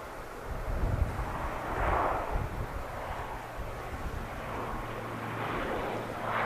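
Airliner engine noise: a steady rushing sound that swells and fades, with a steady low hum setting in about halfway. Wind buffets the microphone at the start.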